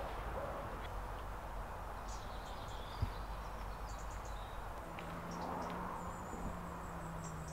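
Outdoor ambience with scattered brief, high bird chirps from small birds, a single click about three seconds in, and a faint steady low hum over the last couple of seconds.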